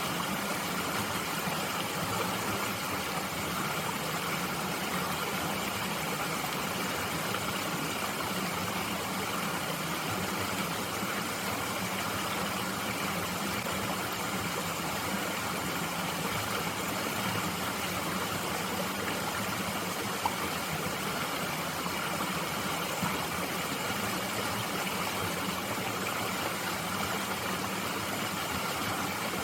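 Mountain stream flowing with a steady rush of water. There is one brief click about twenty seconds in.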